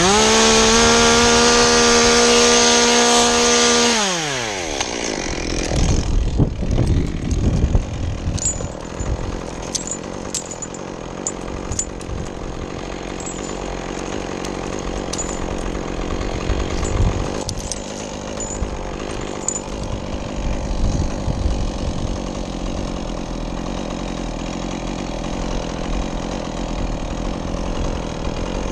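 Two-stroke chainsaw revved up and held at full throttle with a steady high pitch for about four seconds, then dropping back to a low, rough idle that runs on, with a few light ticks.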